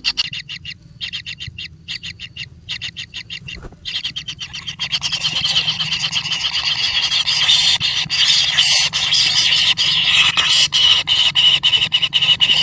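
A rapid train of short, high-pitched animal calls, growing louder and denser about four seconds in.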